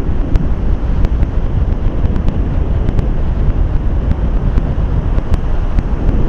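Strong hurricane wind buffeting the microphone in uneven gusts, a heavy low rumble, with scattered light ticks over it.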